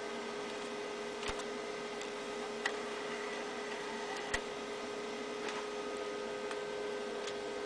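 Steady electrical hum over a faint hiss, broken by a few sharp clicks about a second and a half apart.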